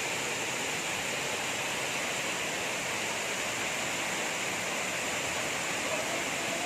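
Waterfall: water falling and splashing, a steady hiss.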